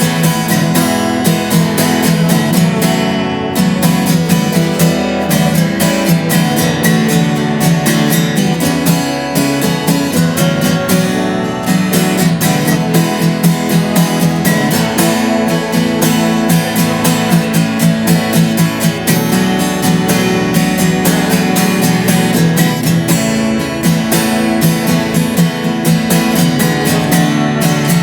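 Acoustic guitar being strummed in a steady rhythm, playing a song.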